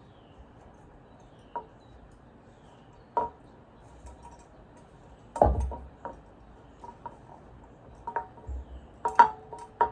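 Scattered light knocks and clinks of a can being handled while twine is wrapped around it. The loudest knock comes about five and a half seconds in, and a quick run of clinks follows near the end.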